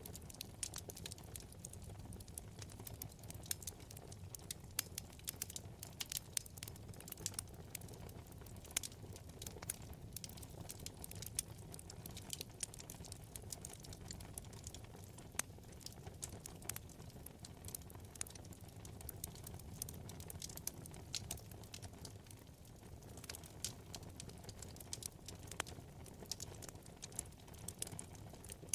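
Wood fire in a fireplace crackling: a constant, irregular run of sharp pops and snaps over a steady low rumble from the burning.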